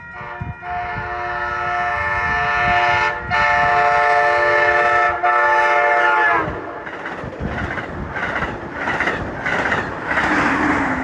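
Amtrak Pacific Surfliner train passing at about 90 mph, its multi-chime horn held in one long warning blast, broken twice, that drops in pitch as it passes; the engineer radios the moment in as a near miss. Then comes the loud rush and rhythmic clatter of the train's wheels on the rails.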